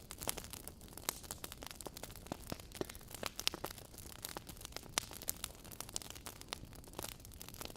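Wood fire burning in a fireplace, crackling with many irregular sharp pops over a low steady hiss.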